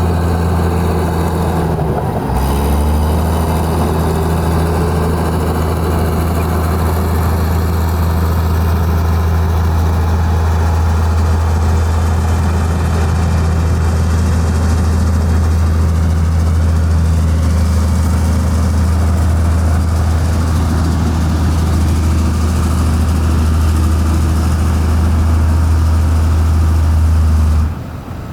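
Heavy diesel engine of earth-moving equipment running steadily at a low, even pitch, with brief breaks about two seconds in and near the end.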